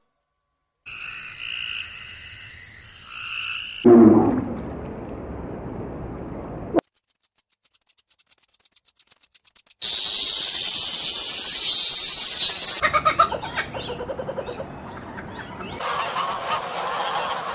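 A string of short animal-call recordings cut hard one into the next: a steady chorus of calls, a fast high pulsing trill, a loud high hiss lasting about three seconds, then a mix of calls.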